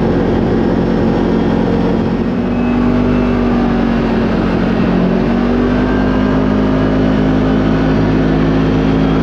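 Side-by-side UTV engine running steadily under way, its pitch rising slightly about halfway through as it picks up revs.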